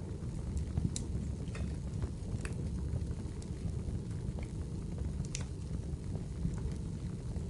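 Wood fire burning in a fireplace: a steady low rumble of flames with scattered sharp crackles and pops of the burning wood, the loudest about a second in, at two and a half seconds and past five seconds.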